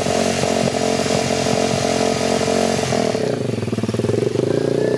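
Dirt bike engine running with a steady buzz. About three seconds in, the sound eases and the engine note changes.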